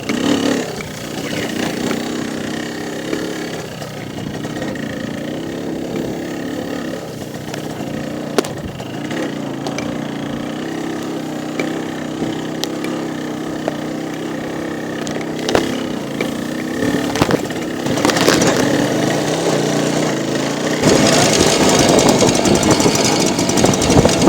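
Motorcycle engine running steadily under way, with scattered knocks and rattles. Near the end it gets louder and noisier.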